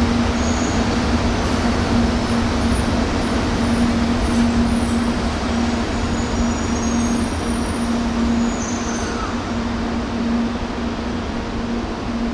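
Shinkansen train running through the station, a loud, steady rushing noise with a low hum under it that slowly fades.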